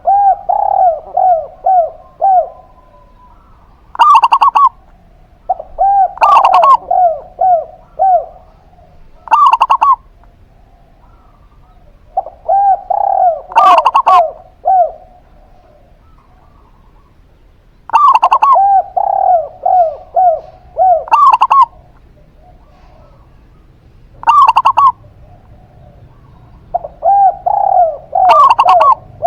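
Zebra dove and spotted dove cooing, a phrase every few seconds. Runs of short, quickly repeated coos come between louder single calls.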